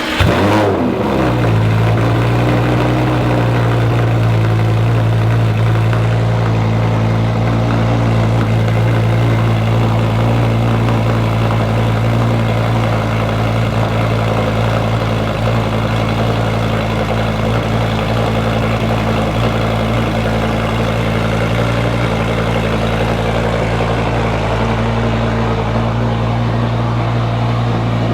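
Car engine running steadily with a constant low drone. Its pitch drops and settles in the first second or so, then holds even.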